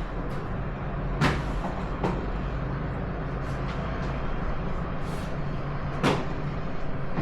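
Steady low engine hum of street traffic, with three sharp knocks, the loudest about a second in and again about six seconds in.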